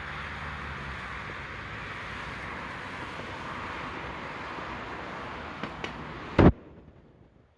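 A steady rushing outdoor noise, like passing road traffic, then a single sharp, loud bang near the end, after which it goes quiet.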